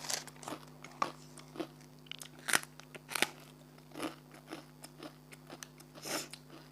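Rice crackers being bitten and chewed close to the microphone: a run of irregular, crisp crunches, several a second at times, over a faint steady low hum.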